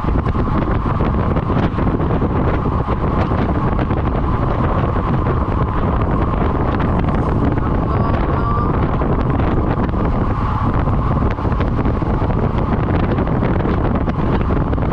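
Heavy wind buffeting on the microphone: a loud, steady rush of noise with no clear events.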